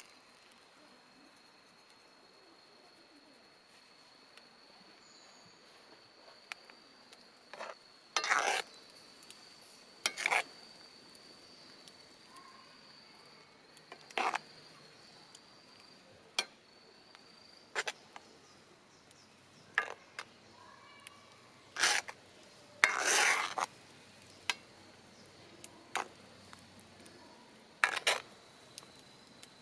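A metal utensil clinking and scraping in a cooking pot in about a dozen short, irregular strokes, as food is stirred. A steady high insect trill runs underneath.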